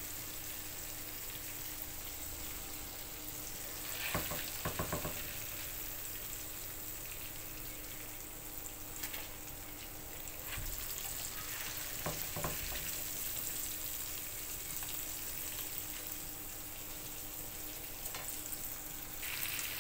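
Flour-coated prawns deep-frying in a pan of hot oil, a steady sizzle. A slotted spatula knocks and scrapes against the pan a few times, around four seconds in and again around twelve, as the prawns are lifted out.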